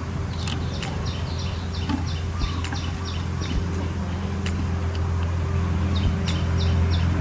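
A bird calling in two runs of short high notes, about three a second, over a steady low hum, with a few light knocks as the trap's wooden board and bricks are handled.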